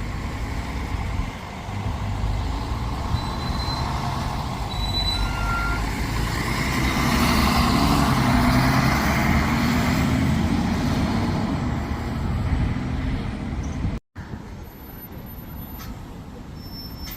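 A diesel bus running as it passes close by, its engine and road noise building to a peak midway, then briefly cutting out near the end and returning quieter.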